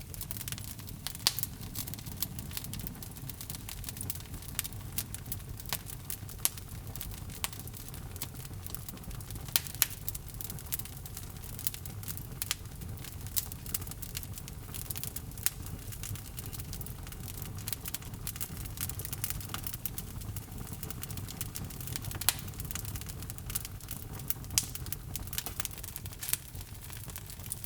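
Log fire burning in a fireplace: a steady low rumble of flames with frequent sharp crackles and pops, a few louder pops standing out.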